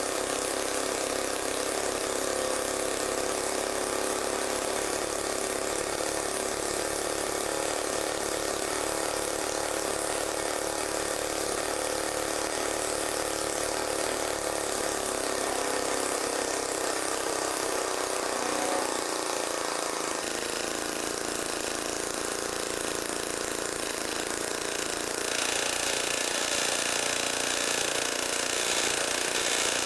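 Small homemade engine built from a refrigerator compressor, running steadily with a mechanical clatter; its tone shifts about two-thirds of the way through and again near the end.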